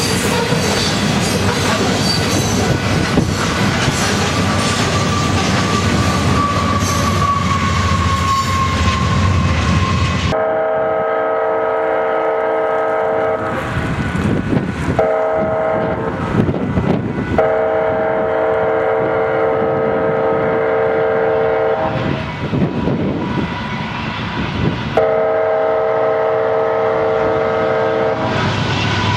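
Freight train hopper cars rolling past: steady rumble and wheel clatter over the rails, with a thin wheel squeal sliding slightly down in pitch. About ten seconds in, the sound changes to a locomotive air horn sounding its chord in several long blasts with short gaps.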